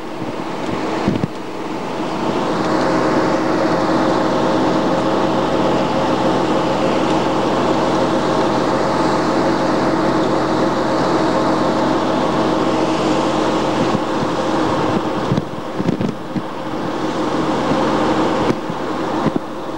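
Fiat 126p 'Maluch' air-cooled two-cylinder engine running steadily at speed, with road and wind noise, heard from inside the car's cabin. The sound drops briefly twice in the last few seconds.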